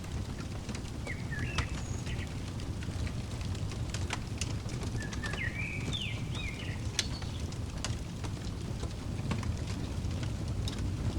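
Wood fire crackling with scattered sharp pops over a steady low rumble. A small songbird sings a short phrase of gliding chirps about a second in, and a longer one around the middle.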